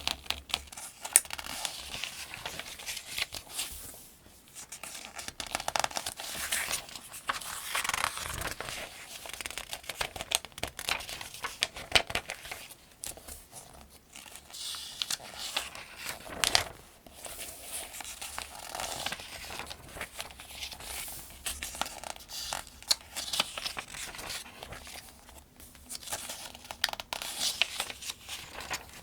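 Pages of the 2025 Farmers' Almanac being turned one after another: papery swishes and crinkles with sharp little snaps as each page flips, in a steady rhythm.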